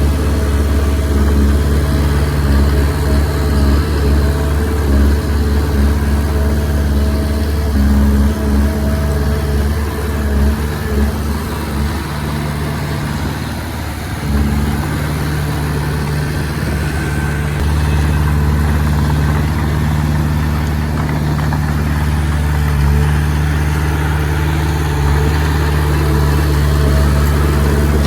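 Diesel engine of a Komatsu D20P bulldozer running steadily. It eases off for a moment about halfway through, then picks back up.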